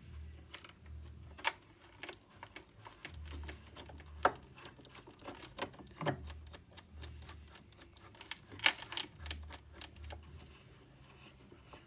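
Irregular sharp clicks and taps of small metal parts: the needle plate screws of a Janome sewing machine being set in place and turned in by hand. The loudest clicks come about four seconds in and about nine seconds in.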